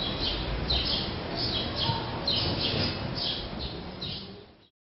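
A small bird chirping repeatedly, short high falling chirps about two a second, over a low background rumble. The sound fades out near the end.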